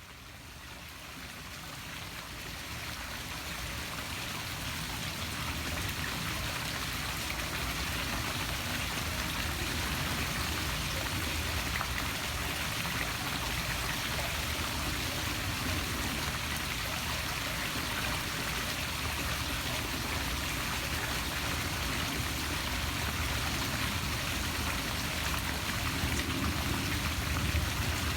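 Poolside waterfall splashing steadily into the pool water. It fades in over the first few seconds, then holds even.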